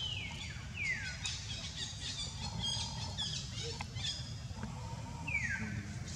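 Wild birds calling: high whistled calls sliding steeply downward, three times, with a spell of quick, sharp chirping in the middle. A steady low rumble runs underneath.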